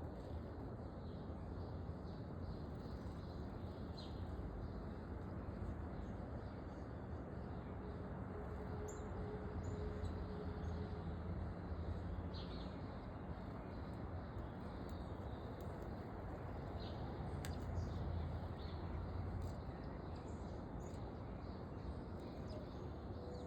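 Small backyard songbirds giving scattered short, high chirps every second or two, over a steady low background rumble.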